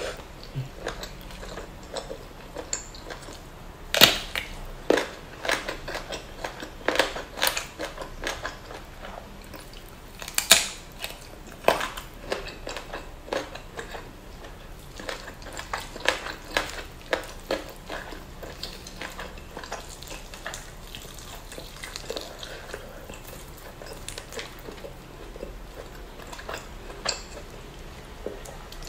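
Close-miked eating by hand: chewing and mouth sounds over spicy duck meat and rice, with irregular sharp clicks and crunches. The loudest come about four seconds and ten seconds in.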